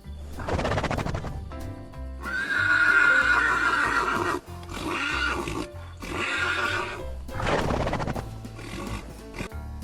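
Three loud, trembling farm-animal calls, the middle one longest and held on a high pitch, over background music.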